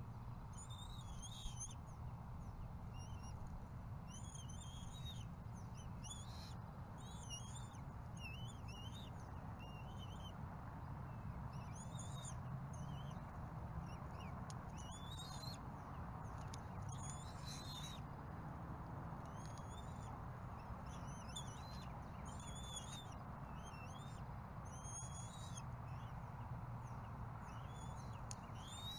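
Birds calling: short, high chirping calls repeated every second or two over a steady background hiss and low hum.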